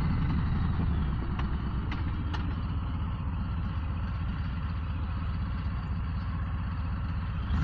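Harley-Davidson Low Rider ST's Milwaukee-Eight V-twin engine running steadily.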